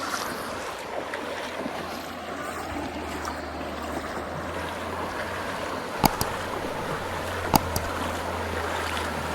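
Steady rush of flowing water with wind noise, broken by two sharp clicks about six and seven and a half seconds in.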